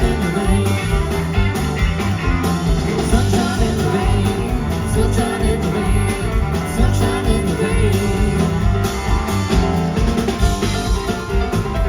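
Live country-rock band playing loudly: guitar over bass and a steady drum beat.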